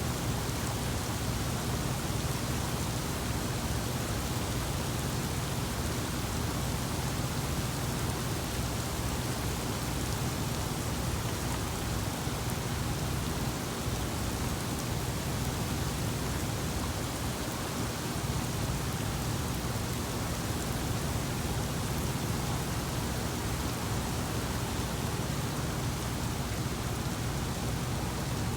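Rain falling steadily during a thunderstorm, an even hiss that stays level throughout.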